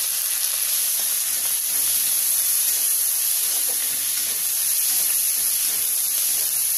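Sliced onions and green chillies sizzling steadily in hot mustard oil in a kadhai, stirred with a spatula.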